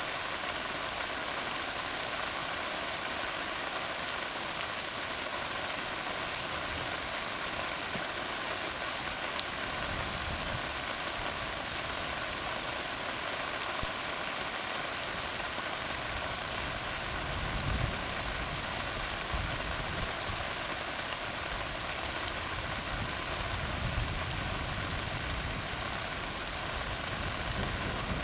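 Steady rain falling on a tar road, a continuous hiss with a few sharper single drops. A low rumbling comes and goes in the second half.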